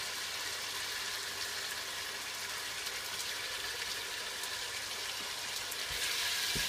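Diced chicken breast sizzling steadily in hot olive oil as it browns in a deep pan, with a couple of soft knocks near the end.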